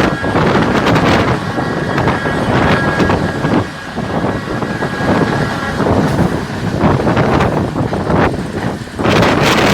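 Heavy wind buffeting the microphone over the running noise of a moving train, with faint steady high tones that stop about six seconds in.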